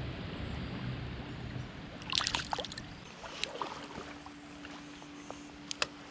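Shallow creek water splashing and sloshing, with a short burst of splashes about two seconds in and a few sharp clicks later on.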